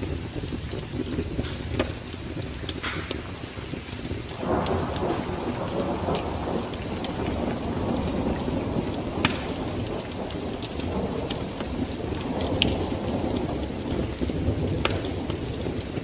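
Fireplace fire crackling, with scattered sharp pops over a steady low rumble that swells about four seconds in.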